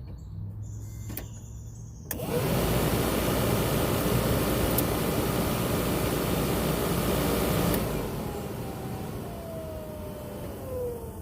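Replacement heater/AC blower fan motor in a square-body Chevy Suburban switched on, running with a steady rush of air for about six seconds, then switched off and spinning down with a falling whine. It runs without the bad noise that the failed old motor made.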